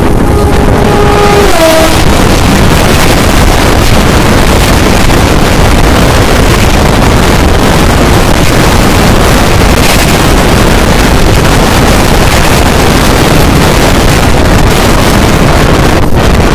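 Humsafar Express hauled by an Indian Railways electric locomotive passing close at high speed: the locomotive's horn sounds for about the first second and a half and drops in pitch as it goes by, then a loud, steady rush of the coaches racing past with wind buffeting the microphone, cutting off suddenly at the end.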